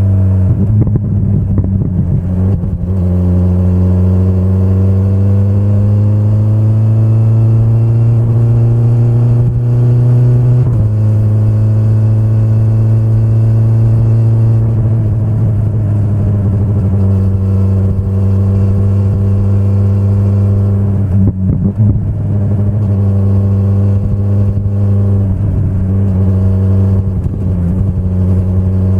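BMW S1000RR inline-four engine under way. Its note climbs slowly for several seconds and then drops sharply about eleven seconds in, as at an upshift. It then runs at steady revs, with a couple of brief dips in the note in the later part as the throttle eases.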